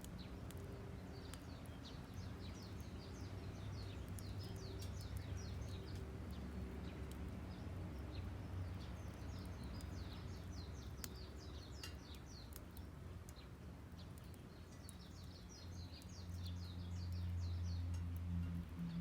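A songbird singing phrases of rapid, short, high chirps, three phrases of several seconds each, over a steady low hum.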